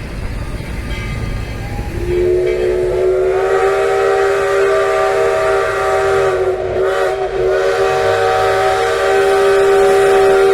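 Mallet 204 2-6-6-2 steam locomotive's chime whistle sounding one long blast of several notes at once as the train departs. It starts about two seconds in, sliding up in pitch as it opens, then holds steady over the low rumble of the train.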